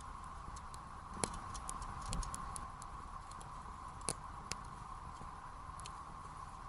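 Burning firewood crackling in a campfire, with sharp irregular pops over a steady hiss. The loudest pops come about a second in and about four seconds in.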